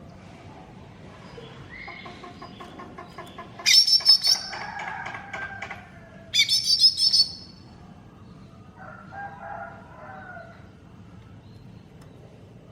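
Green leafbird (cucak ijo) singing a varied, rapid song: quick repeated chirps build from about two seconds in, break into two loud bursts of high, sharp notes around four and seven seconds, then a softer phrase follows near ten seconds.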